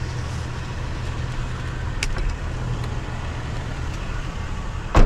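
Vehicle engine idling steadily, with a light click about two seconds in and a sharp, loud clack near the end.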